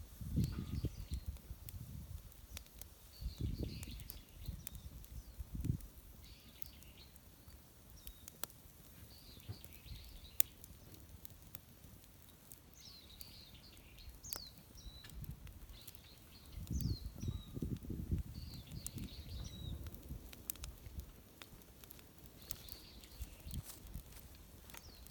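Small birds chirping on and off in short calls with quick falling notes. There are low rumbles near the start, again a few seconds in and again about two-thirds of the way through, and scattered faint clicks.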